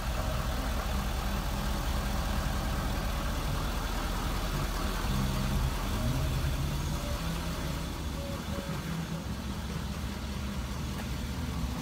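Ford F-350 Super Duty pickup engine idling steadily, a low even hum.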